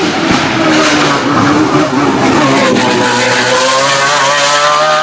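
High-revving racing engine under load, its pitch wavering and then climbing steadily through the second half as the car accelerates.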